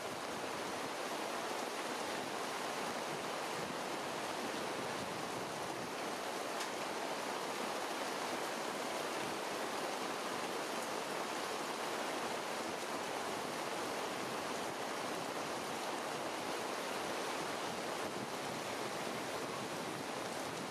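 Steady rain falling on tree foliage, an even hiss that holds without let-up.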